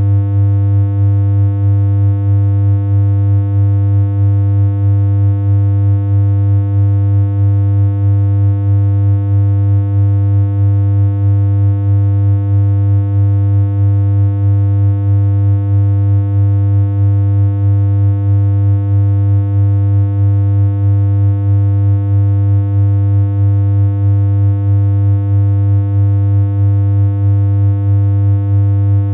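A synthesized hum from BeepBox: one low electronic tone held unchanging, with a buzzy edge from its string of overtones and a slight, regular pulse in loudness.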